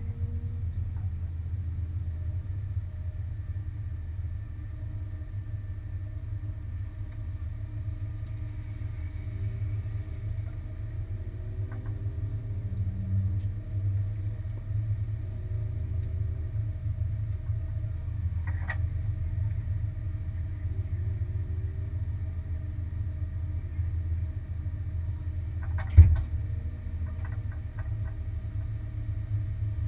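Honda Civic's four-cylinder engine idling steadily, heard from inside the cabin as a low hum. A single sharp knock comes near the end.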